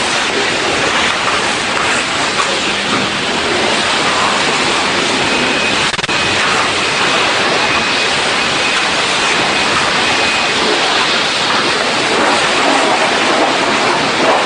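Steady, loud rushing of water spray in a car wash, with a faint thin whistle for a few seconds midway.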